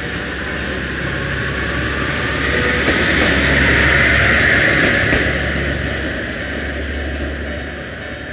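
Watarase Keikoku Railway diesel railcar running past the station crossing, its engine and wheel noise swelling to a peak about halfway through and then fading.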